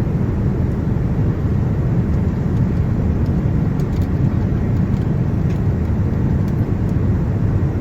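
Steady low rumble of a Boeing 787-9 airliner heard from inside the cabin, with a few faint ticks.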